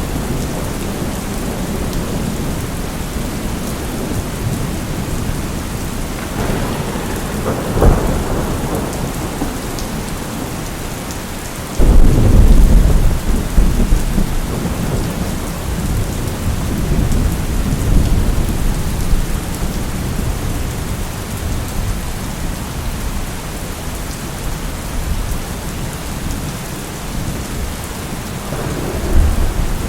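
Thunderstorm: steady rain hiss under thunder. A sharp crack comes about eight seconds in, a sudden loud low rumble breaks out about four seconds later and dies away slowly, and another rumble builds near the end.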